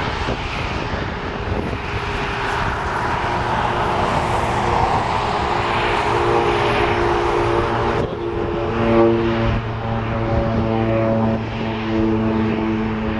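Airliner engine noise: a broad rushing sound that swells and fades, joined about eight seconds in by a steady droning hum.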